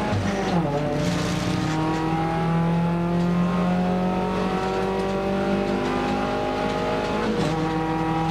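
Nissan March race car's engine under full throttle, heard from inside the cabin. Its pitch falls in the first second, then climbs slowly and steadily for about six seconds, and drops sharply near the end as it changes up a gear.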